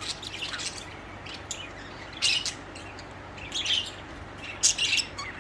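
Pet budgerigars chirping: a few short, high, scattered chirps with gaps between them.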